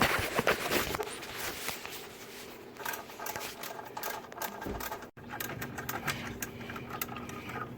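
Rapid, irregular clicking and rattling, loudest and densest in the first second and continuing in scattered runs after that.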